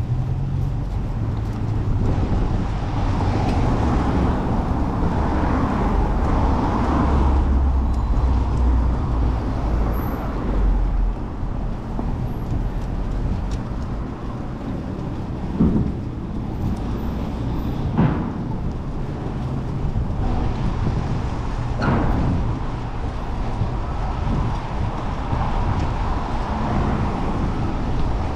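Steady city road traffic with motor vehicle engines rumbling, heard from a moving bicycle. Three short sharp knocks stand out in the second half.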